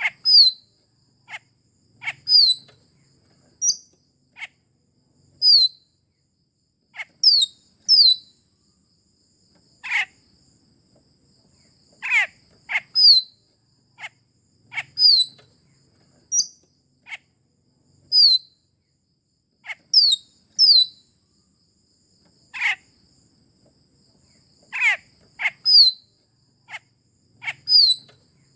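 Sulawesi myna (raja perling Sulawesi) calling: short, sharp notes that sweep quickly downward in pitch, some high and thin, some lower and fuller, repeated every second or two. A constant high-pitched ringing tone runs beneath.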